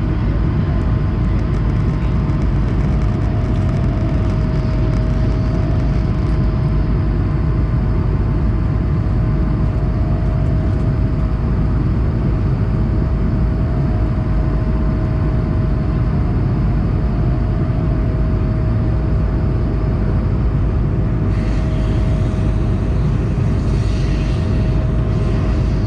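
Cabin noise inside an Airbus A220-100 in flight: the steady low roar of its Pratt & Whitney PW1524G geared turbofans and the airflow, with a constant hum over it. A faint higher hiss joins near the end.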